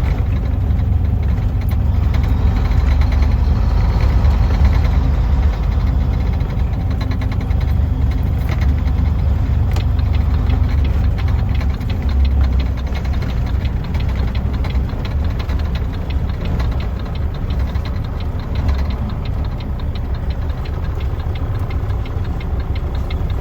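Semi truck's diesel engine running steadily with a constant low rumble.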